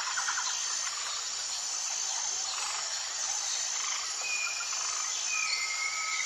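Jungle ambience: a steady high-pitched insect chorus, with a rapid pulsing call that stops about half a second in. From about four seconds in come long, drawn-out whistled bird calls.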